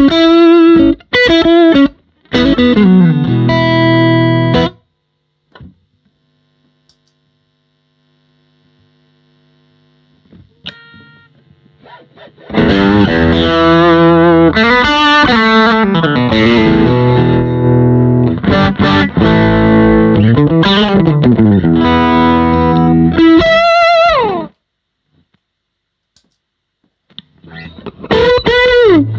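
Electric guitar, a Stratocaster, played through an EWS Brute Drive overdrive pedal into a miked Fender Bassman amp, giving a crunchy overdriven tone. It plays phrases of chords and single notes. The playing stops about five seconds in, with only a few faint notes during the pause, comes back strongly at about twelve seconds, breaks off again at about twenty-four seconds, and starts once more near the end.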